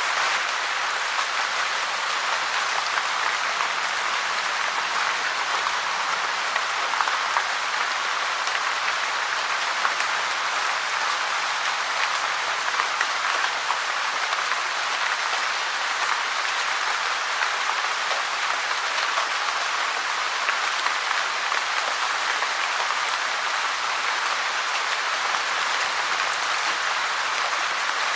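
Steady rain falling: a dense, even hiss of countless drops with no change in strength.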